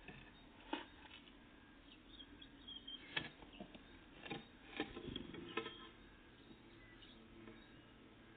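Faint songbird chirps, with about five sharp taps scattered through the first two-thirds.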